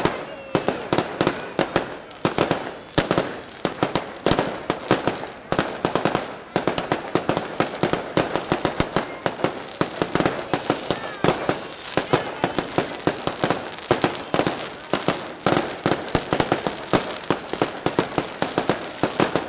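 Daylight fireworks going off in a dense, continuous volley: a rapid string of sharp firecracker bangs, several a second, with no let-up.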